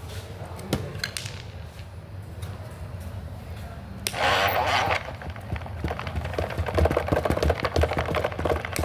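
Homemade cardboard model washing machine running on its small motor with a low hum, a brief rushing burst about four seconds in, then rapid rattling and knocking of the basket in its suspension from about halfway on.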